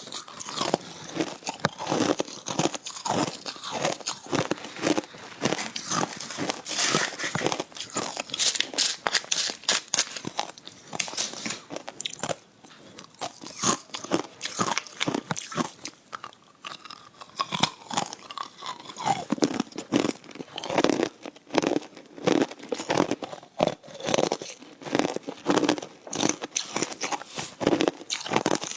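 Hard ice being bitten and chewed: dense, rapid crunching and cracking, quieter for a few seconds midway before picking up again.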